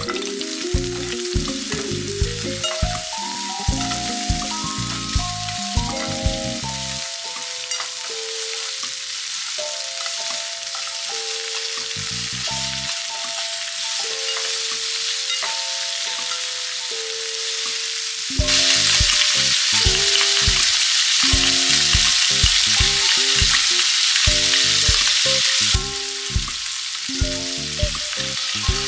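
Garlic, onion and ham frying in oil in a pan, a steady sizzle with chopsticks stirring; the sizzle grows clearly louder for about seven seconds in the second half. A light melody with a soft beat plays over it.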